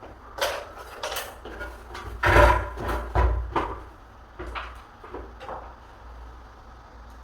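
Hand work on a door and its hardware: a series of irregular knocks, taps and scrapes, with a longer, louder scraping clatter about two and a half seconds in.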